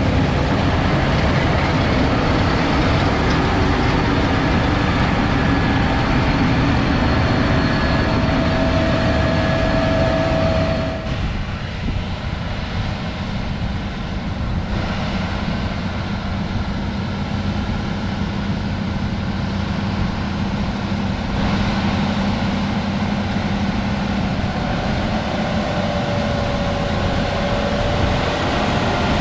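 Heavy wheat-harvest machinery running steadily: big diesel engines and moving machinery. The sound drops a little about eleven seconds in, and a faint steady whine comes and goes.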